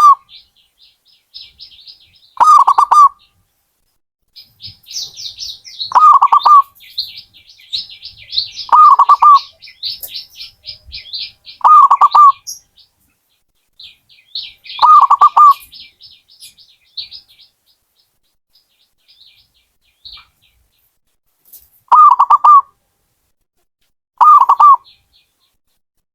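Zebra dove (perkutut) cooing, seven short calls about three seconds apart with a pause of several seconds before the last two. Lighter high-pitched chirping of another small bird runs behind it through the first two-thirds.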